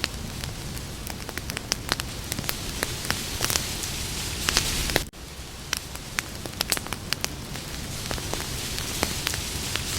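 Wood campfire crackling: many sharp irregular pops and snaps over a steady low hiss and rumble of burning, with a momentary dip in level about halfway through.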